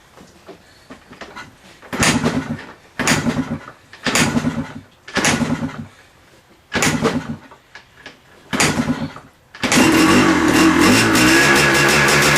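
Yamaha Tri-Z 250 two-stroke single being kick-started from cold after months parked: six kicks, each a short burst as the engine turns over, then near the end it catches and runs, its pitch wavering briefly before settling into a steady run.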